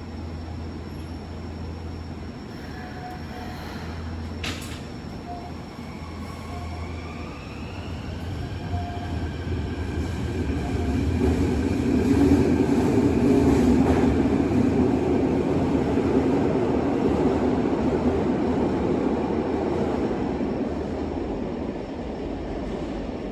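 Electric commuter train pulling out. A sharp clank about four seconds in, then the traction motors' whine rising in pitch as it accelerates, over a growing rumble of wheels on rail. Loudest about halfway through, then fading as it draws away.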